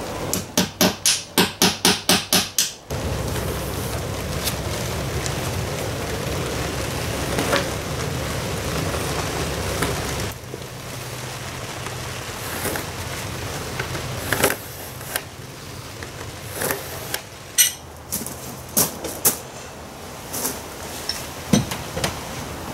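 A hammer striking a tool against the laminated wooden keel: about ten quick, evenly spaced blows, roughly four a second, in the first three seconds. A steady low hum follows for several seconds, then scattered sharp taps and clicks.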